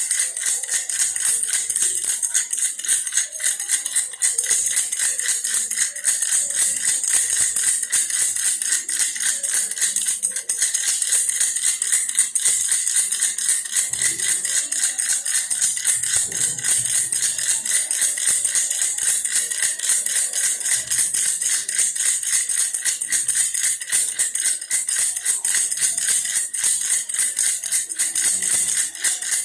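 Baby's toy bear rattle shaken continuously, a dense, rapid, unbroken rattling.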